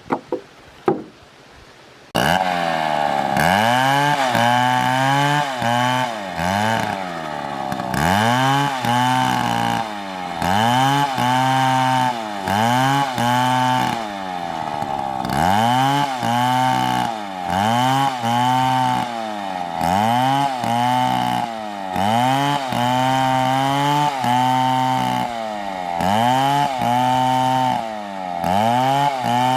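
Large two-stroke chainsaw comes in suddenly about two seconds in and cuts through wood, its engine pitch rising and falling about once a second as it works the cut. A few clicks come just before it.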